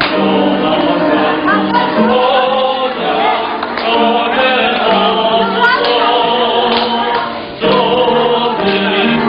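A church choir singing a praise song with music, sustained sung notes, breaking briefly between phrases about seven and a half seconds in.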